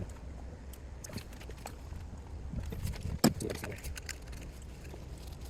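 Metal hand tools clinking and tapping against parts in a car's engine bay, with one sharp knock about three seconds in, over a low steady rumble.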